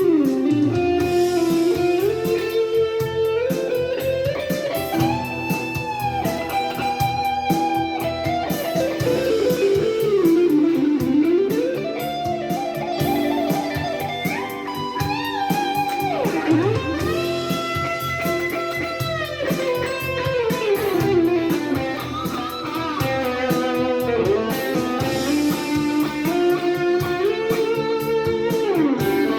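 Electric guitar, a Stratocaster with a Suhr DSH pickup, played through a Yamaha THR10 II amp. It plays a slow, bluesy lead line with wide string bends up and down and long held notes with vibrato.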